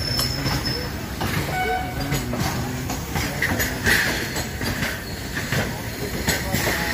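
Trains running on rails: steady running noise, wheels clattering over rail joints and a few brief high squeals in the first two seconds. It is heard from a moving passenger coach with a goods train of covered wagons running on the next track.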